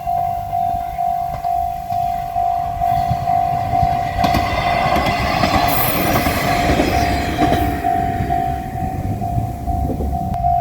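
Level-crossing bell ringing about twice a second while a JR Shikoku KiHa 54 diesel railcar passes over the crossing. The train's running noise and wheel clicks swell from about three seconds in, are loudest midway, and fade near the end.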